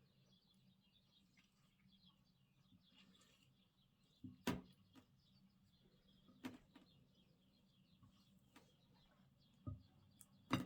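Slime being squeezed and stretched by hand: faint, fine crackling, with a few sharp pops of air bubbles bursting, the loudest about four seconds in and at the very end.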